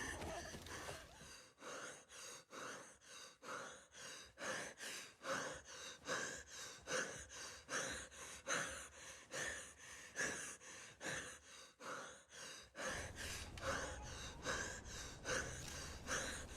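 A person panting hard, quick rhythmic breaths about two to three a second; a low rumble comes in near the end.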